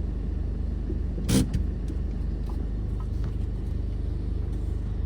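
Car running on the road: a steady low rumble of engine and tyres, with one sharp click about a second in.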